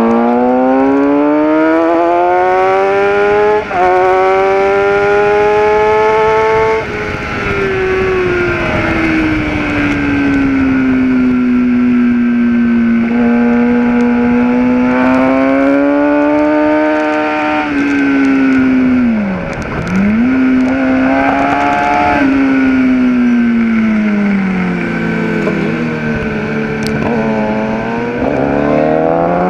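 Kawasaki ZX-10R sportbike's inline-four engine at full track pace, heard from on board: it accelerates with rising pitch, snaps up a gear about 3.5 s and 13 s in, then rolls off and falls in pitch for corners, with further quick drops and blips near the 20 s mark. Steady wind rush runs underneath.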